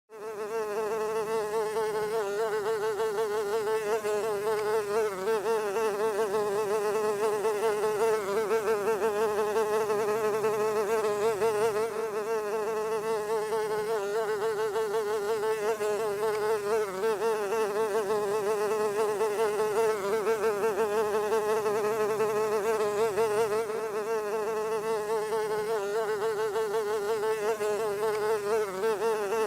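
Housefly buzzing in one continuous drone, its pitch wavering slightly up and down.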